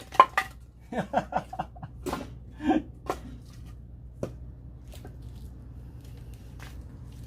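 People laughing in short bursts, with a few sharp knocks near the start and one more about four seconds in.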